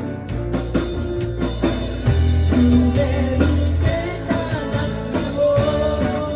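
Live rock band playing: drum kit, bass and chords, with a long held note starting about five seconds in.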